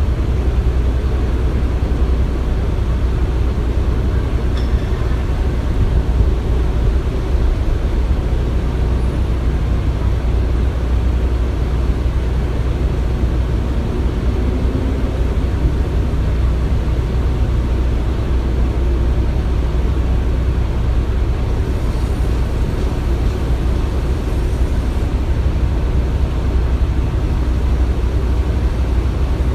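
Construction machinery running with a steady low rumble and no distinct knocks or strikes.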